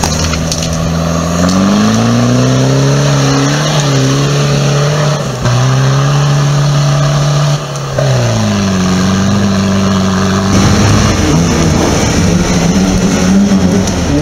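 Off-road 4x4 engines revving hard under load while climbing, held at high revs with dips and rises in pitch. The sound changes abruptly a few times as the engine heard switches.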